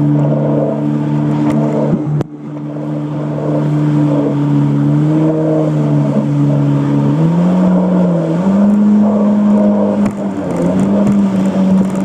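Jet ski engine running at steady speed, its note holding level, with a brief sharp drop about two seconds in and a change to a somewhat different pitch about seven seconds in.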